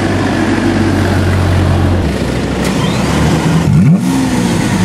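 Lamborghini Aventador's V12 idling, with a quick blip of the throttle about four seconds in: the revs rise and drop straight back to idle.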